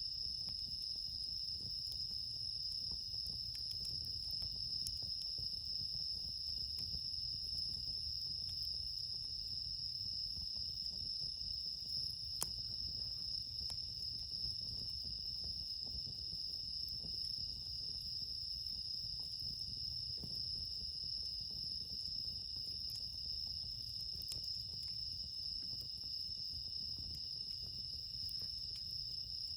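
Night chorus of crickets, Japanese bell crickets (suzumushi) among them, singing as a steady, unbroken high ring. A few faint crackles from a campfire, one sharper about halfway through.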